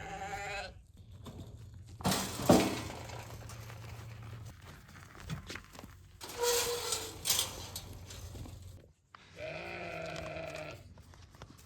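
Sheep bleating twice: a short bleat at the start and a longer one about ten seconds in. In between come bursts of rustling, crunching noise, the loudest about two and a half seconds in.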